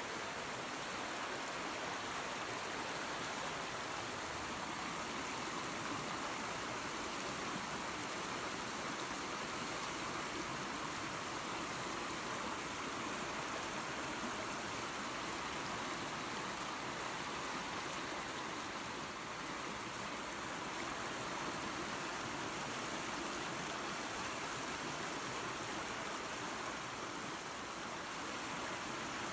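Small waterfall and creek running, a steady rushing of water without a break.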